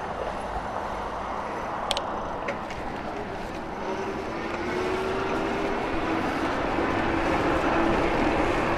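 Riding noise from an e-bike on the move: a steady rush of wind and tyre noise, with a click about two seconds in. From about four seconds in, a thin steady whine joins it and grows slightly louder.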